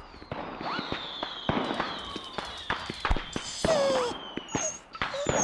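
Fireworks going off: many sharp cracks and bangs, with a long whistle that slowly falls in pitch.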